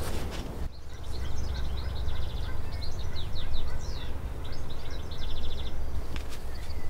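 A songbird singing a rapid, varied song of chirps and quick trills, starting about a second in and stopping near the end, over a steady low rumble.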